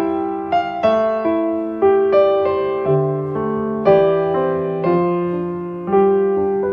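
Solo piano playing a slow, gentle piece: notes and chords struck about every half second, each ringing and fading away.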